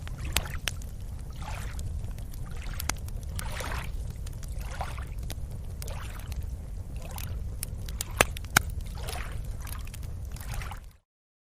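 Water being stirred in regular swishing strokes about once a second over a steady low rumble, like paddling or small waves lapping against a boat. There are a few sharp knocks, the two loudest close together about eight seconds in. The sound cuts off abruptly shortly before the end.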